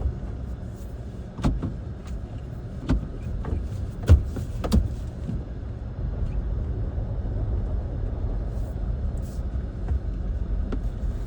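Car driving slowly, heard from inside: a steady low rumble of engine and road, with a few sharp knocks and jolts in the first five seconds, the loudest about four seconds in.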